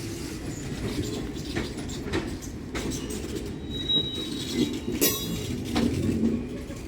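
A train rolling past: a steady low rumble with the knock of wheels over rail joints every so often, and a brief high wheel squeal about four seconds in.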